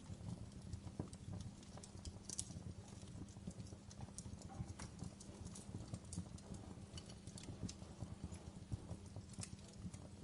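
Wood fire in a fireplace crackling: irregular sharp pops and snaps of burning logs over a steady low rumble.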